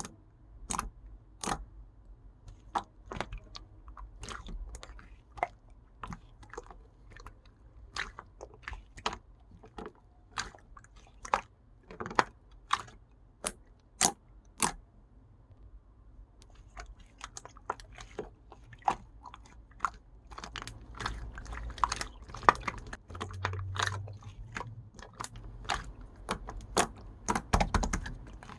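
Slime made with Elmer's glue being pressed and squished by hand, giving sharp clicks and pops. They come about one or two a second at first, then faster and busier from a little past halfway.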